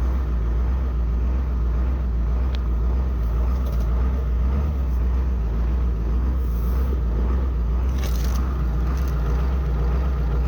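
Ford 7.3L Powerstroke V8 turbodiesel running steadily with a deep, even rumble. The engine has a cracked injector cup but runs smoothly.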